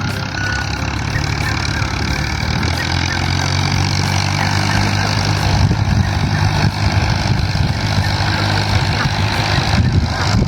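Vehicle engine running steadily with a low hum, growing a little louder and rougher about halfway through.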